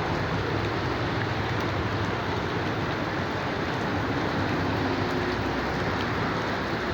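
Steady rain falling and pattering on surfaces, an even hiss that holds level throughout.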